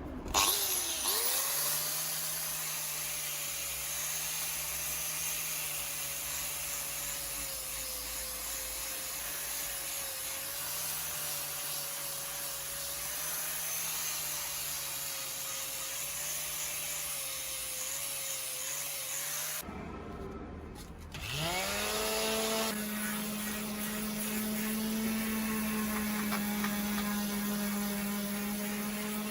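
Electric power tool spinning up and running under load against the axe, with a rubbing, grinding noise over the motor tone. About twenty seconds in it stops, spins up again, and runs on at a steady pitch.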